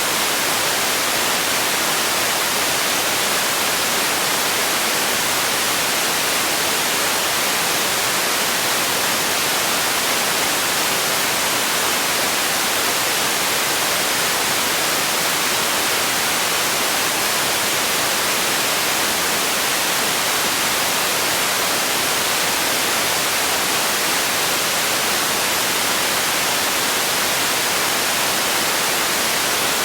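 Steady white noise: an even hiss, brightest in the treble, that does not change.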